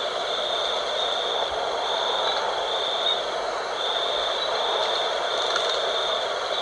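Night wind blowing steadily, with a high, even trill that starts and stops every second or so above it.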